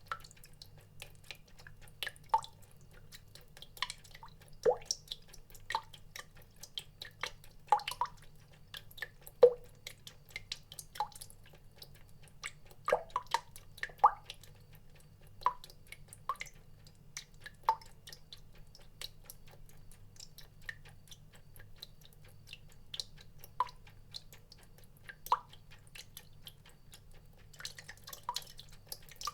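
Water drops dripping irregularly into water, each a short plink at a varying pitch, a few to the second at the busiest, with one louder drop about nine seconds in. A steady low hum runs underneath.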